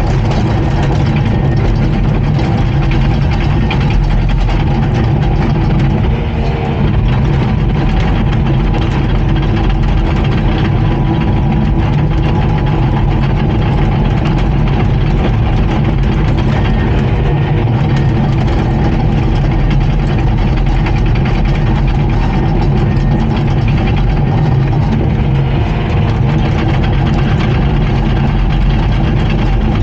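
Komatsu D39PX bulldozer's diesel engine running steadily and loudly, with no clear revving or pauses.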